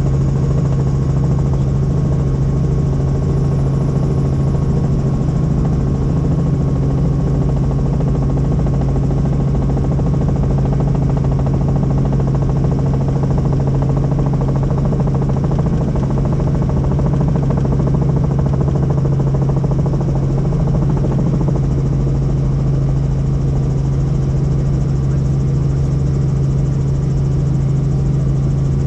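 Helicopter running with a steady, loud drone: a strong low hum with fainter higher tones above it, unchanging throughout.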